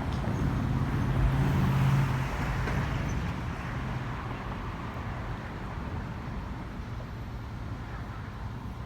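A low engine hum, loudest in the first two seconds and then slowly fading, over a steady rush of noise.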